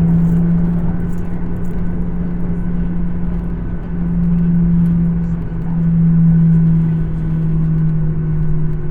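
Cabin noise of an Embraer 175 regional jet on takeoff: its two GE CF34 turbofan engines give a loud, steady low drone with rumble beneath, swelling a little about four and six seconds in.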